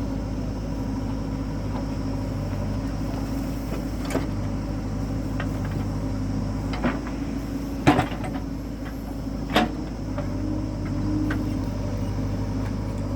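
A diesel engine running steadily, its note dipping briefly in the middle, with a few sharp metallic knocks; the loudest comes about eight seconds in.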